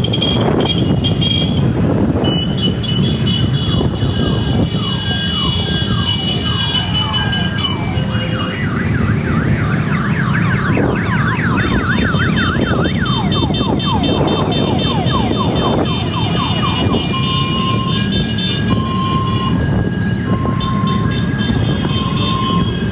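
A crowd of motorcycles running together, with many horns and electronic siren and alarm tones sounding over the engine rumble: steady beeping tones and quick falling whoops that repeat over and over.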